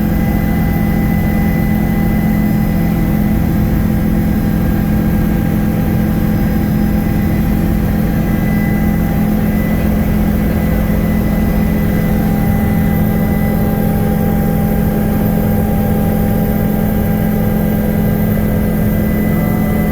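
Helicopter in flight heard from on board: a loud, unbroken drone of engine and rotors with a strong low hum and a few steady whining tones above it.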